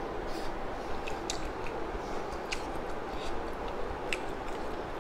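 Person chewing a mouthful of instant noodles, with scattered wet mouth clicks, over a steady background hum.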